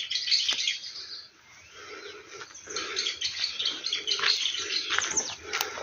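Small songbirds chirping and twittering, many short high calls overlapping, dropping off briefly a little over a second in and then picking up again.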